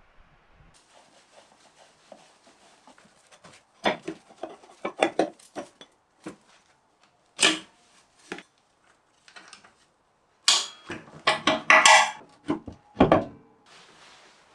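Metal tools and parts clinking and clattering in irregular knocks, with a denser, louder run of clatters about ten to thirteen seconds in.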